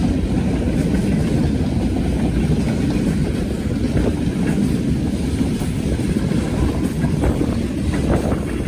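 Freight train rolling past with a steady low rumble and a few faint clicks near the end.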